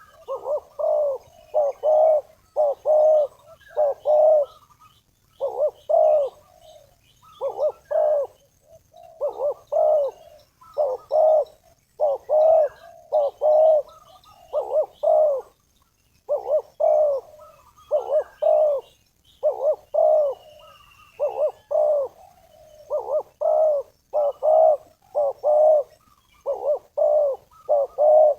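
Spotted dove (tekukur) cooing over and over in short phrases of several coo notes, the call of a decoy bird used to lure wild doves. Faint high chirps of small birds sound in the background.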